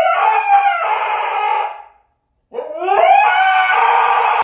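A dog howling: two long howls, each rising in pitch at the start and then held, with a short break between them about two seconds in.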